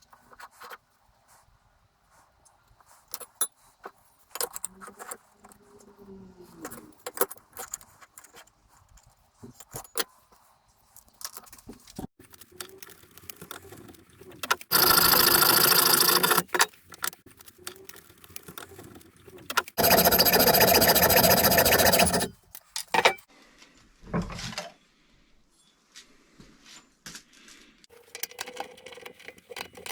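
An electric drill motor runs twice in steady bursts of about two seconds each, around halfway through and again a few seconds later. Between the runs there are scattered metal clinks and tool-handling knocks.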